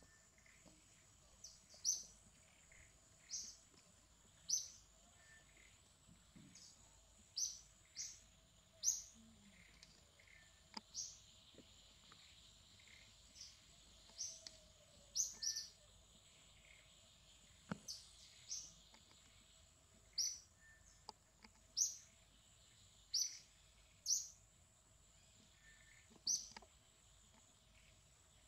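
A bird calling over and over: short, sharp chirps that slide downward in pitch, repeated about every one to two seconds.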